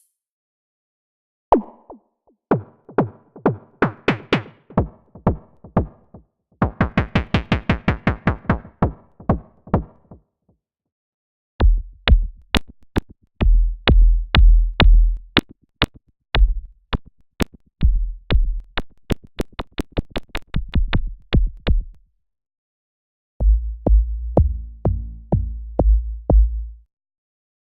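Brainworx bx_oberhausen software synthesizer, modelled on the Oberheim SEM, playing three short sequenced patch demos one after another, with a brief pause between each. All three are quick runs of short plucked notes; the second and third sit on a deep bass with sharp, clicky note starts.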